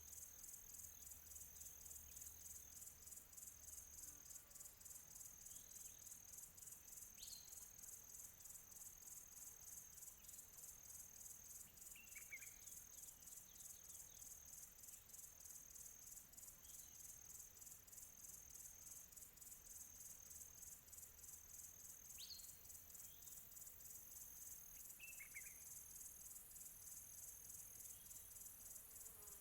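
Faint, steady chirring of crickets in a high, finely pulsing trill, with a few distant bird calls, short downward-sweeping chirps, now and then.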